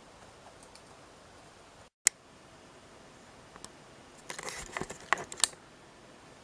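One sharp click about two seconds in, then a short burst of clicking and light rattling over about a second near the end, like small plastic parts or keys being handled.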